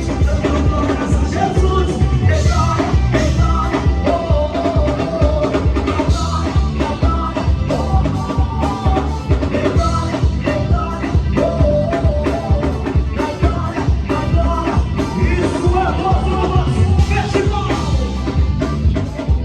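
Live gospel band music with drum kit, bass and a lead singer, played loud through a PA system.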